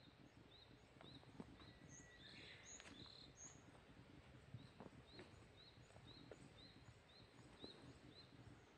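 Faint outdoor garden ambience with a small bird repeating a short chirp about twice a second. A few higher chirps come in about two to three seconds in.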